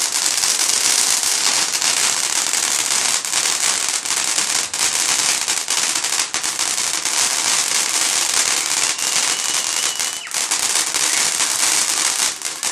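Fireworks crackling without a break: a dense run of rapid small pops over a steady hiss.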